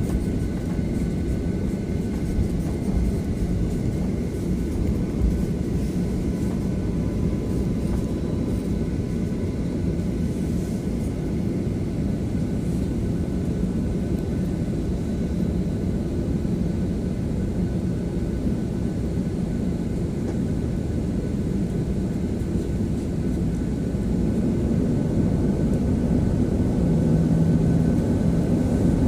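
Steady engine rumble of a jet airliner heard inside the passenger cabin, growing a little louder near the end.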